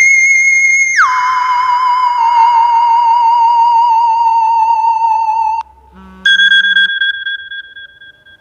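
iPhone ringtone playing: a high electronic tone slides down about an octave about a second in and holds with a wavering vibrato, then cuts off suddenly. A new, lower tone starts about six seconds in and fades away.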